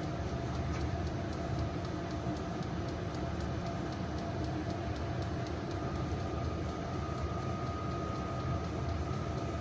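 Diesel air heater running: steady combustion-fan hum and burner rumble, with the fuel pump's regular ticking.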